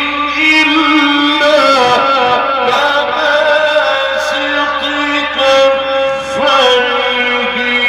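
Male Quran reciter chanting in a slow, melodic style, drawing out long ornamented notes that glide and waver in pitch.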